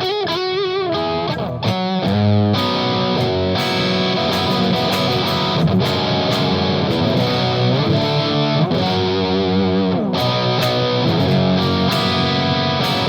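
Electric guitar on its bridge pickup through an EarthQuaker Devices Palisades overdrive pedal set to Gain A with the boost engaged, playing distorted chords and lead lines. There are wavering string bends and vibrato in the first second or two.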